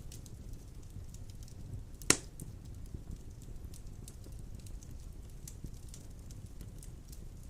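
Large wood logs burning in a fireplace: a steady low rumble of flames with scattered small crackles, and one loud sharp pop about two seconds in.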